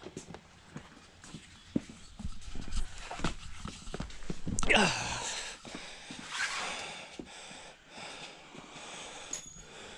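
Scattered light knocks and scuffs of hands and tools working on the car, with a louder stretch of rag rustling and wiping about halfway through.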